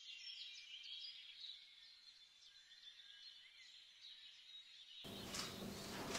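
Faint bird chirping, many short high calls over a steady high-pitched tone. About five seconds in, the sound changes abruptly to a louder hiss with a sharp click.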